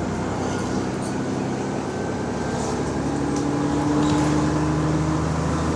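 Bus engine running under load, its hum rising slightly in pitch and getting a little louder about halfway through as the bus pulls away. It carries the noise of an exhaust leak.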